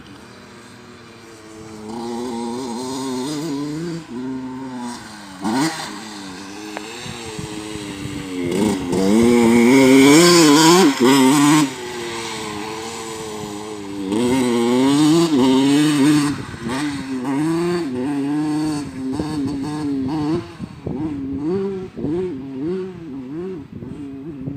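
Motocross bike engine revving up and down over and over as it is ridden, its pitch rising and falling every second or so. It is loudest for a few seconds near the middle.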